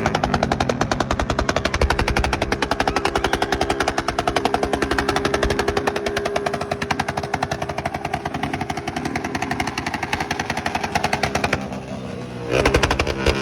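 Motorcycle engine with a loud open exhaust running hard as a rapid, continuous train of pops. It eases off briefly near the end, then revs up again.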